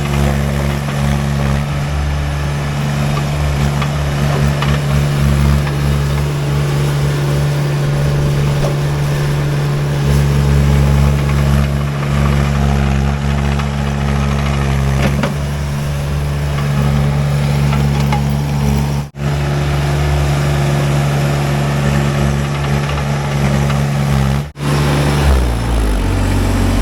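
Baumalight TRL620D mini skid steer's engine running steadily at working speed, then dropping in speed near the end.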